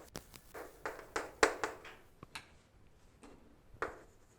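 A handful of soft, scattered taps and clicks on a surface, the clearest about a second and a half in.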